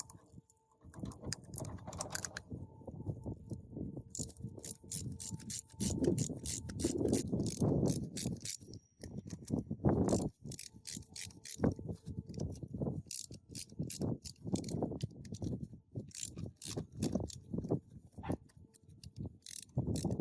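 Hand tools working on metal machine parts, with irregular clicking, ratcheting and scraping noises.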